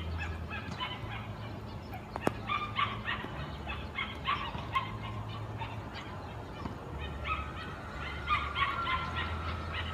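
Birds calling in quick runs of short, repeated notes, over a low background rumble.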